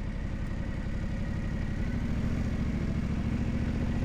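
Yamaha Ténéré 700's parallel-twin engine running steadily at low revs.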